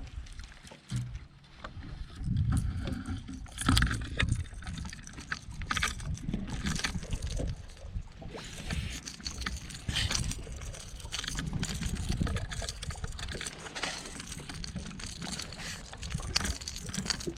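Water sloshing and gurgling against a fishing boat, with a low rumble and scattered knocks and clicks of handling noise.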